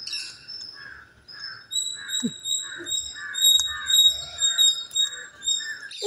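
Birds chirping: a short call repeated about twice a second, joined about two seconds in by a high, thin, steady note that keeps breaking off and starting again.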